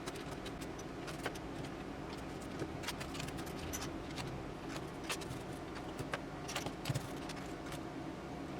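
Plastic building bricks clicking and rattling as a Lego-style kit is assembled: irregular sharp clicks, several a second, over a steady low hum.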